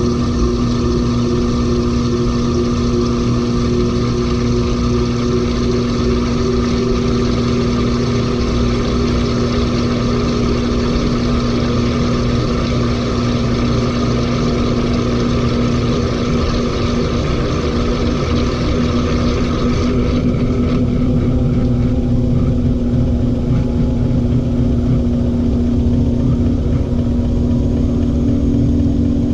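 LG 18 kg front-loading washing machine in its final spin with a heavy load: a steady, loud motor hum and drum rumble with a rushing hiss over it. A little past two-thirds of the way through, the hiss fades while the hum and rumble keep going.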